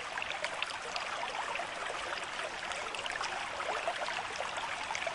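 River stream at moderate flow: a steady rush of water with many small splashes and gurgles.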